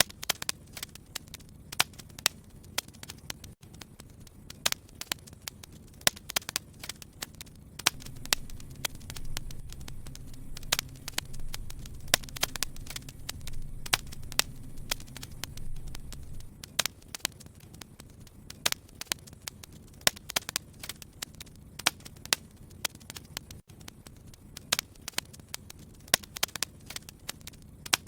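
Wood fire burning in a fireplace, crackling and popping with irregular sharp snaps. A low rumble of the flames swells for several seconds in the middle.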